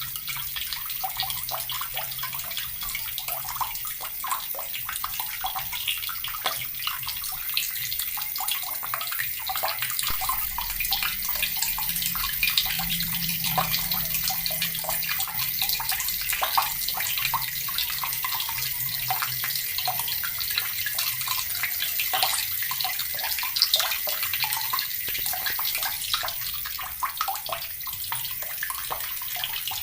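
Water running steadily from a tap and splashing, a continuous hiss full of small, close-set splashes.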